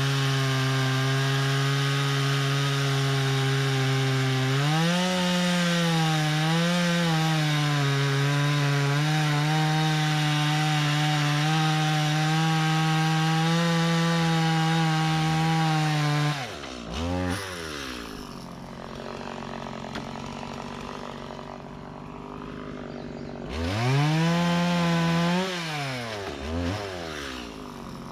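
Two-stroke chainsaw running at full throttle, its pitch sagging briefly a few seconds in as it takes the load of a cut, then dropping to idle about two-thirds of the way through and being revved up twice more.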